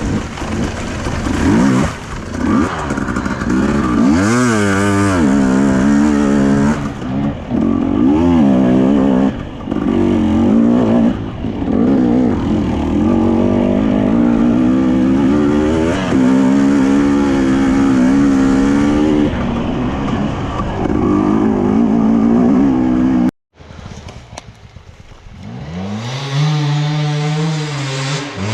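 Enduro dirt bike engine revving up and down as it is ridden, its pitch rising and falling with the throttle. About 23 s in it cuts out abruptly, then an engine revs again near the end.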